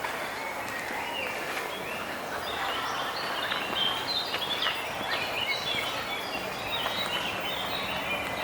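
Many small birds chirping and chattering at once, a dense overlapping twitter of short high calls that thickens about two seconds in, over a steady outdoor background hiss.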